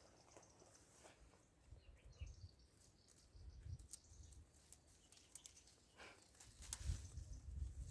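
Near silence, with faint low rumbles and a few faint ticks.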